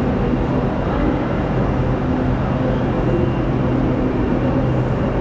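Steady, loud rumble of a train running at a station platform, with a constant low engine hum.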